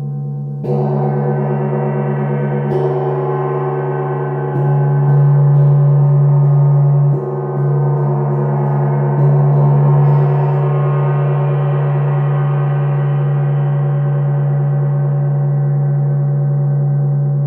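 Gong struck about a second in, then struck softly several more times, each stroke swelling the sound. It rings on with many overtones over a steady low tone.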